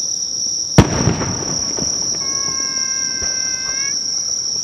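A single loud firework shell bursting about a second in, followed by a second or so of fading crackle and rumble, over a steady high insect trill.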